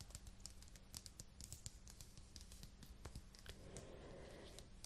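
Soft, quick, irregular tapping on a book's cover and spine, many light taps in a row; near the end a faint rustling or brushing joins in.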